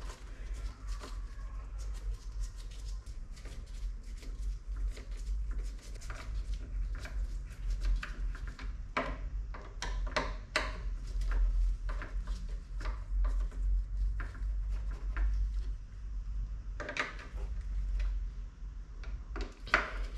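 Irregular clicks, taps and light knocks of parts of a car's electric window regulator mechanism being handled and fitted, with clusters about nine seconds in and again near the end, over a low steady rumble.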